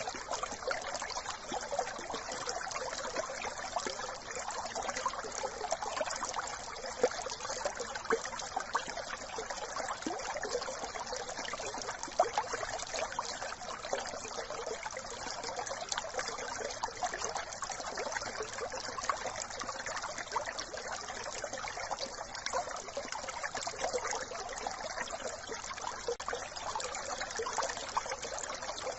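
A shallow brook babbling and trickling over stones in a steady, unbroken flow of small splashes.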